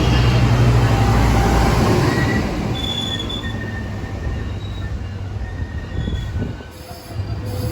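Metrolink passenger train rolling slowly into a station, its wheels squealing in short high tones as it brakes. A low locomotive drone is heard for the first couple of seconds, then fades as the train slows.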